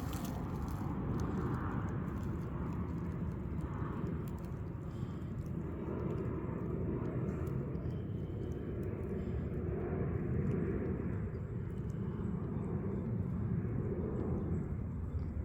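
Steady low rumbling background noise of an outdoor field recording, even throughout, with no clear birdsong.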